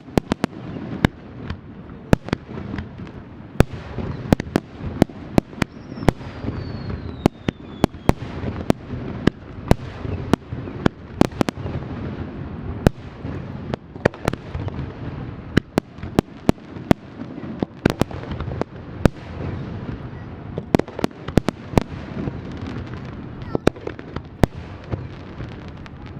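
Aerial fireworks bursting in rapid, irregular succession: many sharp bangs over a continuous low rumble of explosions. A thin whistle falls in pitch about six seconds in.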